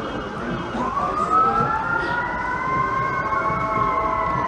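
Emergency vehicle siren wailing: its pitch winds up about a second in, holds high, then slowly falls away near the end.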